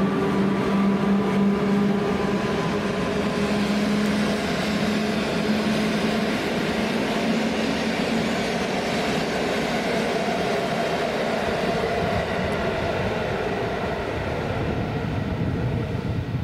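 Electric passenger train running on the station tracks: steady rolling wheel-and-rail noise with an electric hum that fades out about halfway through.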